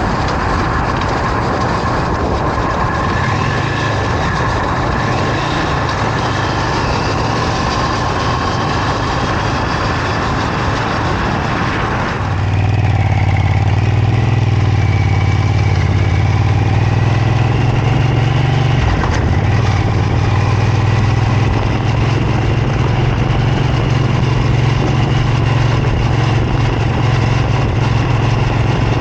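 2002 Triumph Bonneville America's air-cooled parallel-twin engine running steadily while the motorcycle is ridden. The sound steps abruptly louder about twelve seconds in and shifts again a few seconds later.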